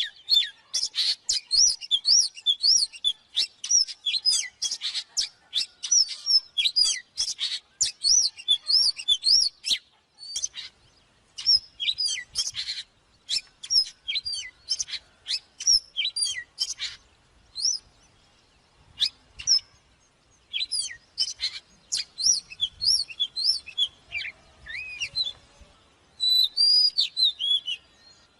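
Oriental magpie-robin singing: rapid phrases of varied clear whistles, rising and falling glides and sharp chirps, broken by a few short pauses.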